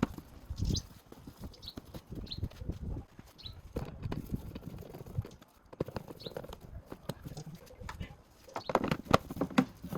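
Irregular knocks and clicks of tools and plastic engine-bay parts being handled while the air filter housing is screwed back down, with a few short squeaks and a denser clatter about nine seconds in.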